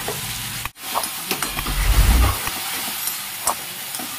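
Garlic and chopped onion sizzling in hot oil and ghee in a pan, stirred with a spatula that clicks and scrapes against the pan. The sizzle drops out for a moment a little under a second in.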